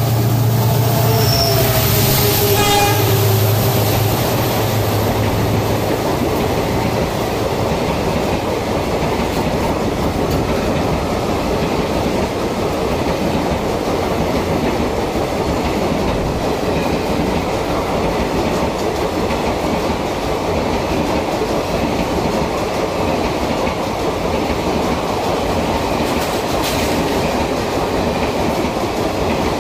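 An express train with a diesel locomotive running through a station at speed. The horn sounds at the very start and the engine drones for the first few seconds, then a long rake of coaches rushes past with a steady rumble of wheels on the rails.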